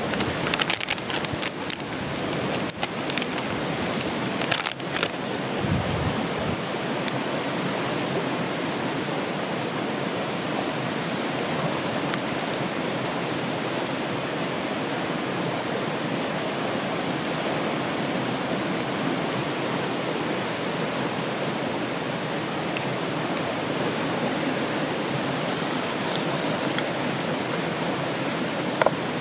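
Steady rush of a river flowing past, with a few light clicks and knocks in the first few seconds.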